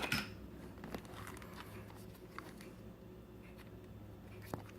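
Small plastic dash cam mounts being handled: a few light clicks and faint rustles, the loudest click right at the start and another near the end, over a faint steady hum.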